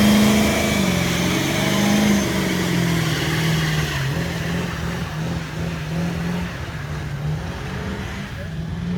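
Truck engine held at high revs, its pitch wavering up and down as it slowly fades.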